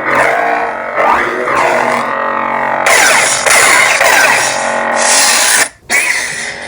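Custom lightsaber's sound board playing a Lord Blako sound font: a steady buzzing hum with swooping rises and falls in pitch as the blade is swung. A brighter, hissier stretch comes in about three seconds in, and the sound cuts out briefly near the end before coming back.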